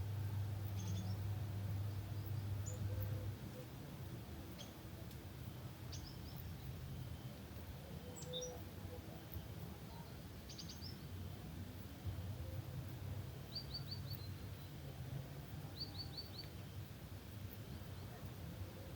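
Small birds chirping in an evening outdoor ambience: scattered short high calls and a few quick trills of three or four notes, over a low steady hum that drops away about three seconds in and comes back faintly later.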